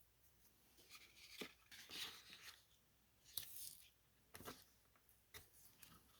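Faint rustling and scraping of double-sided adhesive tape being pulled from its roll, torn off and pressed onto a cardstock tab, in several short strokes.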